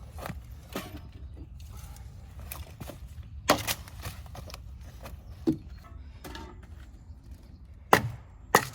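Wood being handled in the forest: a few separate sharp knocks and snaps, the loudest two close together near the end, over a steady low background rumble.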